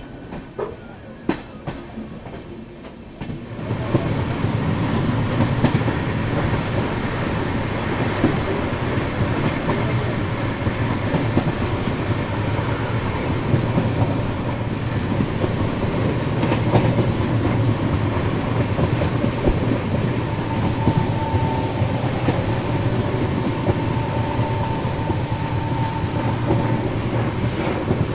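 Express train running on broad-gauge track: steady low running noise of the coach and wheels on the rails. It starts quieter with a few sharp clicks, then gets suddenly louder about three and a half seconds in. A faint thin whine comes in and out in the last third.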